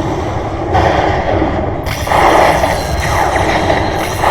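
Lightning Dollar Link video slot machine's game sound effects while it is played: noisy bursts about a second long, repeated several times over a steady low background rumble.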